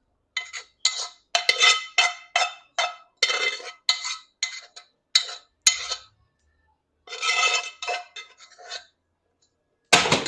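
A metal spoon repeatedly clinking and scraping against a cooking pot, about two strokes a second with a ringing metallic tone. There are two runs of strokes with a short pause between them, and a louder clank near the end.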